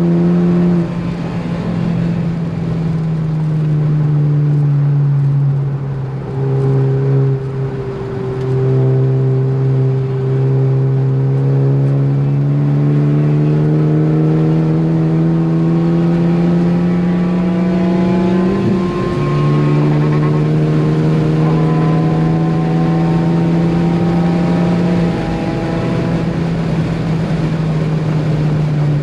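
Ford Focus ST engine pulling hard on track, its pitch climbing slowly over long stretches and dropping sharply several times, about a second in, near six and eight seconds, around nineteen seconds and again around twenty-five seconds.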